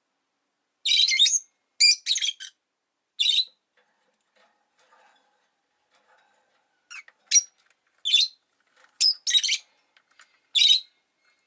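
Rosy-faced lovebird giving short, shrill chirping calls: a burst of about four calls in the first few seconds, a pause, then another run of several calls in the second half.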